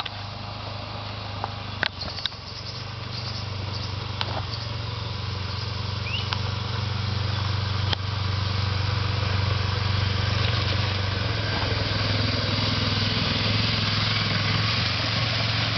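F650 motorcycle engine running steadily, growing louder over several seconds, with a few sharp clicks in the first half.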